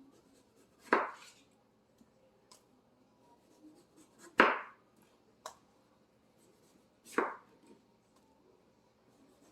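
Kitchen knife cutting through a canary melon and hitting the cutting board: three loud chops a few seconds apart, with a few fainter knocks between them.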